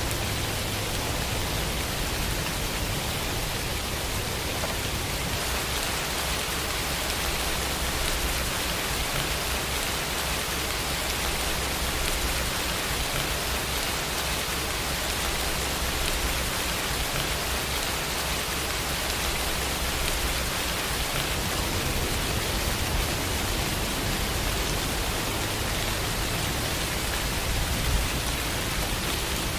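Steady, even rain hiss.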